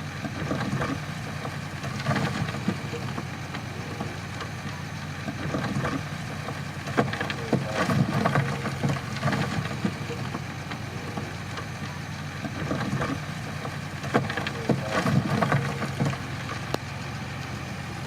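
Crawler bulldozer's diesel engine running steadily at work, with irregular clanks and knocks of the machine working; these get louder about seven seconds in and again near fifteen seconds.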